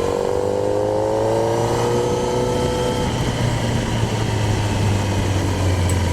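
Kawasaki Z1000's inline-four engine accelerating, its pitch rising for about three seconds, then running on at a steadier note.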